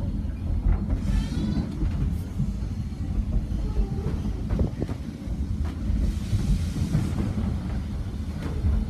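Ride noise of a vintage passenger car on a moving steam train, heard from inside the car: a steady low rumble from the wheels on the rails, with a few sharp clacks over rail joints and two brief hisses, about a second in and around six seconds in.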